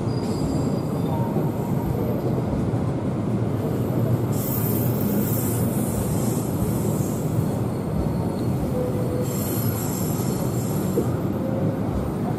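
The Mutiara Selatan train's passenger carriages rolling past along the platform with a steady rumble of wheels on rail. A high-pitched squeal rises twice, about four seconds in and again about nine seconds in.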